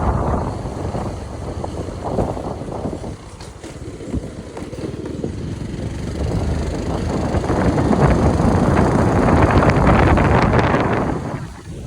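Road traffic on a rain-wet avenue: a steady rush of vehicle noise that grows louder through the second half as traffic passes close, then drops away sharply near the end.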